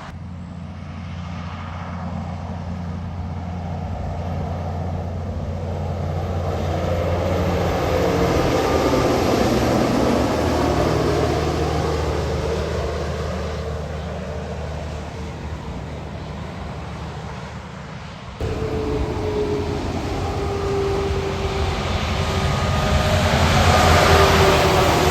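Heavy semi-trailer trucks driving past on the highway. Their diesel engines hum steadily under tyre and road noise that swells as each truck nears and fades as it goes. After a sudden change about two-thirds through, another truck approaches with a slowly falling whine and passes loudest near the end.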